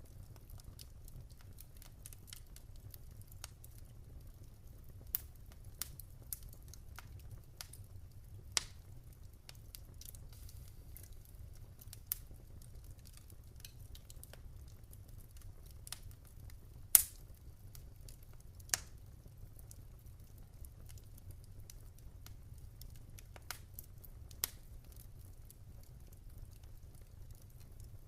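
Wood fire crackling in a fireplace: scattered sharp pops and snaps, the loudest about seventeen seconds in, over a steady low rumble.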